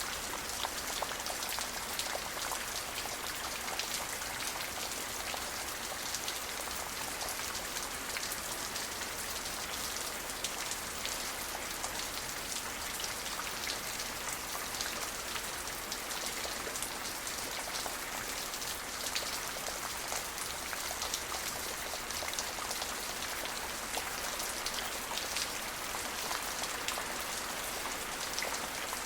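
Steady rain falling, an even hiss strongest in the high range, peppered with countless fine drop ticks.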